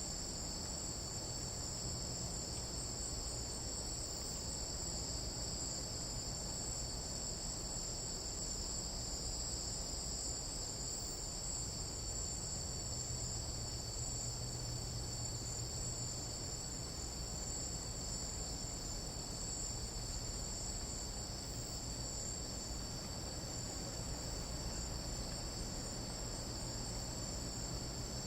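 Tropical jungle night insects chorusing: a steady, unbroken high-pitched drone of several overlapping tones that never lets up.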